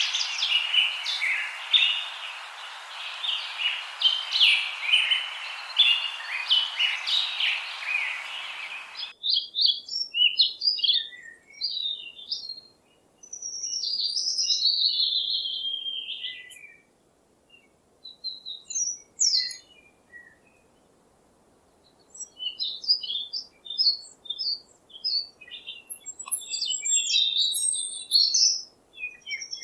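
Songbirds chirping and singing. For the first nine seconds many quick chirps sound over a steady hiss; then the hiss cuts off abruptly and single birds sing separate, warbling phrases with short pauses between them.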